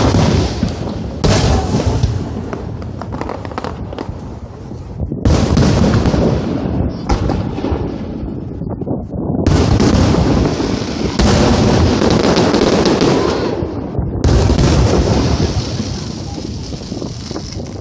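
Aerial fireworks shells bursting in quick succession, with about seven sharp booms. Each boom is followed by a few seconds of dense crackle that dies away before the next one.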